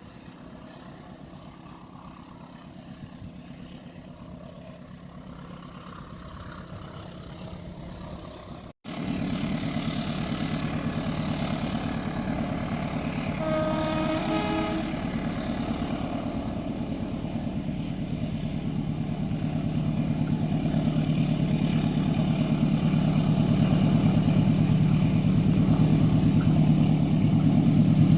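Diesel locomotive approaching, its engine drone steady and growing louder, with a few short horn toots about halfway through.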